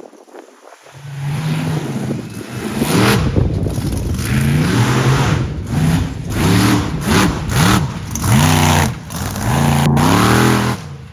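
Monster truck engine revving hard, its pitch rising and falling in repeated quick blips that start about a second in and cut off suddenly near the end.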